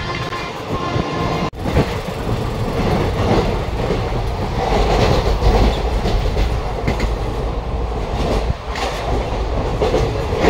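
Black Diamond Express train running: a steady rumble with the wheels clattering over the rails, heard from inside a sleeper coach. A horn sounds for about the first second and a half and cuts off abruptly.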